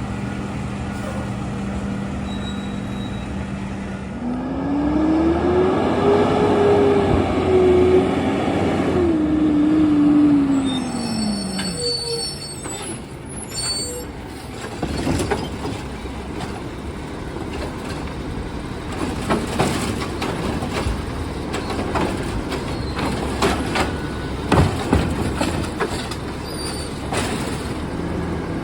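Garbage truck engine idling, then revving up for several seconds and settling back down, with a high metallic squeal as it drops. A long run of sharp knocks and bangs follows.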